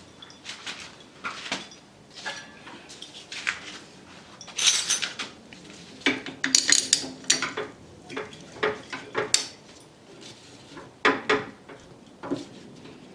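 Small metal parts and tools clinking and clattering against each other and a hard surface in irregular handling knocks, some ringing briefly, the busiest stretch about halfway through, during a brake caliper overhaul.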